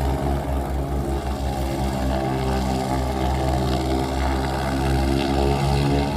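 Light seaplane's propeller engine running steadily, a loud low drone that holds one pitch.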